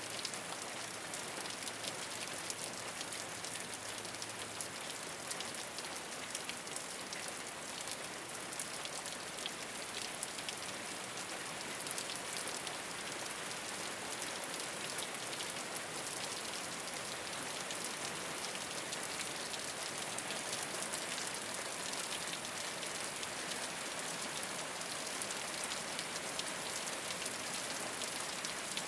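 Steady rain falling on a rooftop, a continuous patter dense with the small ticks of individual drops.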